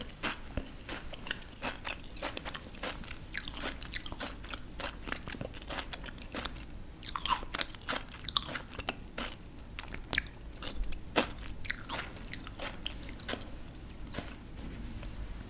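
A person biting and chewing crisp raw vegetables close to the microphone: a steady run of crunching chews, with louder bursts of crunches about seven and ten seconds in.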